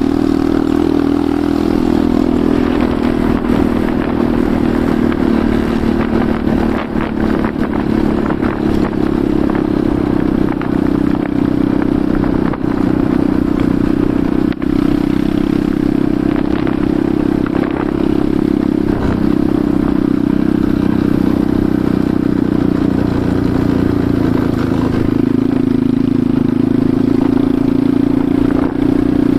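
Enduro motorcycle engine running steadily while riding, its pitch holding fairly even and dipping slightly near the end, with scattered clatter and knocks over it.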